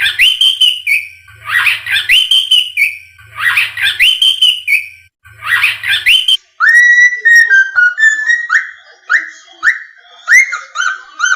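Cockatiel whistling. For about six seconds it repeats the same short phrase of rising whistles four times. After a brief break it switches to a quicker run of short whistled notes of a tune.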